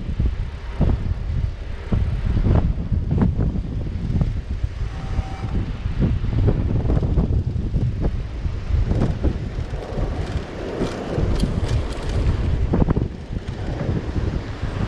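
Wind buffeting the microphone of a camera riding along on a moving bicycle, a steady rough rumble that swells and dips, with a few short knocks from bumps along the way.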